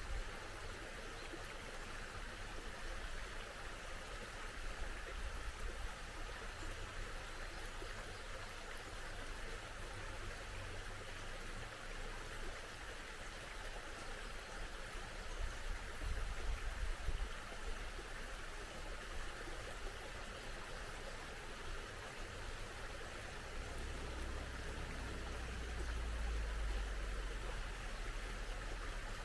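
Small mountain stream babbling steadily. A low rumble swells briefly about halfway through and again near the end.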